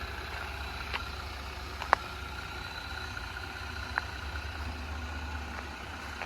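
Jeep Gladiator engine idling with a steady low hum, with three sharp clicks about one, two and four seconds in, the middle one the loudest.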